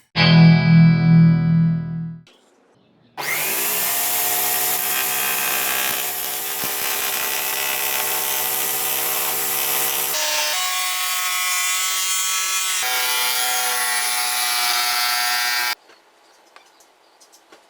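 Electric drill driving a homemade wooden lathe, with a tool cutting into the spinning wood: a steady motor hum under a loud scraping hiss. The pitch shifts abruptly twice before it stops suddenly near the end.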